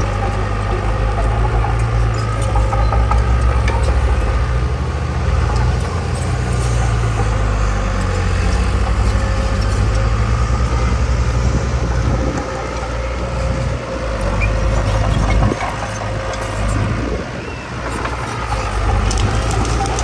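Heavy diesel construction machinery running steadily, a low engine tone with some rattling over it, easing slightly in loudness for a few seconds past the middle.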